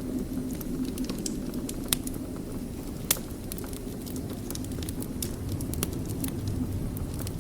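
Fire in a fireplace, crackling steadily with many small sharp pops over a low rumble of the flames, two pops louder than the rest about two and three seconds in.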